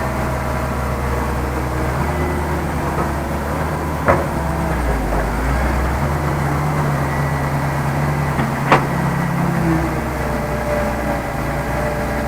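Heavy diesel machinery engine running steadily, its pitch stepping up and down a few times. Two sharp knocks cut through it, about four seconds and nearly nine seconds in.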